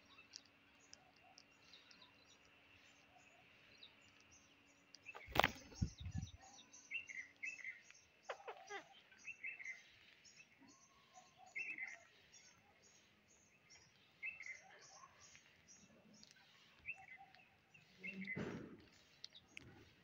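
Faint outdoor ambience with short bird chirps every couple of seconds. A sharp knock comes about five seconds in, and a brief rustle near the end.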